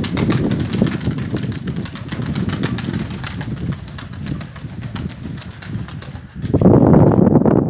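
Wind buffeting the microphone in uneven gusts, a low rumble with a louder gust about six seconds in.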